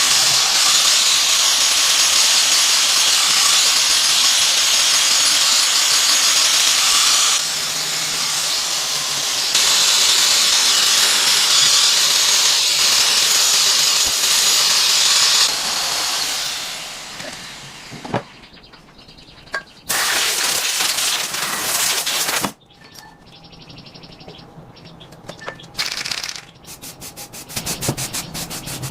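A loud, steady hiss, like air or spray under pressure, fading out about two-thirds of the way through. Then come a few short hissing bursts and, near the end, a quick run of even scraping strokes like sanding or filing.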